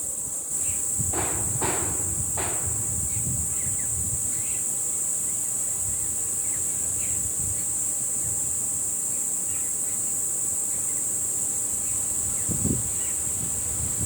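Insects droning steadily at a high pitch, with wind rumbling on the microphone and scattered short bird chirps. Three brief rustling sounds come between one and two and a half seconds in.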